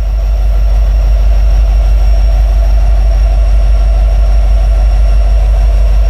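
Diesel freight locomotives running close by: a heavy, steady low rumble with a faint steady hum above it.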